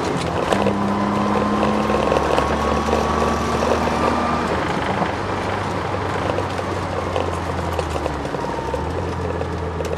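Twin-turbo Ford Sierra XR4x4 running at speed, heard from inside the cabin: a steady engine and drivetrain drone with a thin whine that rises slowly in pitch over the first few seconds. The whine is drivetrain noise that the owner puts down to the car's solid diff mount and poly bushes.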